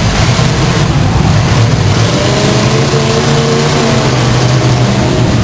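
Several demolition derby cars' engines running and revving together, one engine rising and falling in pitch about two and a half to four seconds in.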